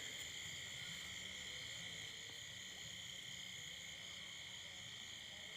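Night insect chorus: crickets chirring steadily at several high pitches at once, faint and unbroken.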